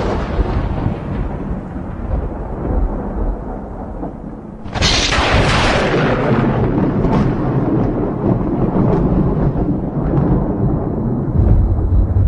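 Thunder. The rumble of one clap fades, then about five seconds in a sharp crack breaks into a long rolling rumble that swells again near the end.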